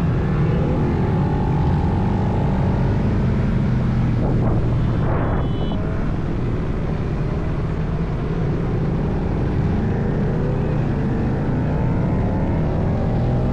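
Motorcycle engine running on the road with steady wind noise, its pitch drifting up and down with the throttle.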